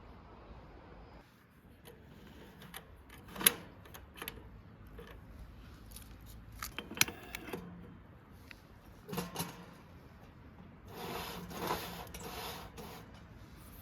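Scattered clinks and knocks of small hard objects being handled, with a short rustling stretch near the end.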